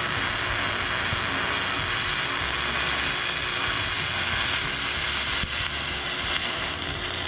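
Welding arc of a Miller Spool-O-Matic 30A spool gun laying a bead on aluminum frame tubing: a steady hissing crackle that cuts off suddenly near the end.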